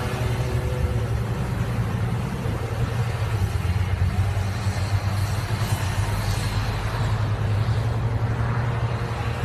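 An engine running steadily with a deep, unchanging drone.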